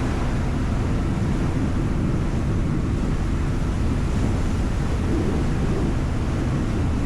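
Steady low rumble of a ferry under way, with wind noise on the microphone.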